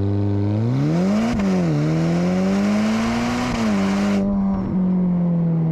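Ferrari Portofino M's 3.9-litre twin-turbo V8 accelerating: the engine note climbs, drops sharply at a quick upshift about one and a half seconds in, climbs again and drops at a second upshift about three and a half seconds in, then pulls steadily. A rushing hiss lies over the engine and cuts off suddenly about four seconds in.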